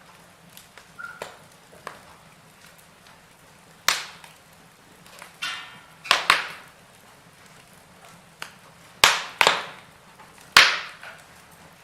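Wood logs burning in a fireplace, crackling: scattered small ticks and about half a dozen loud, sharp pops, some in quick pairs, with a short hiss near the middle.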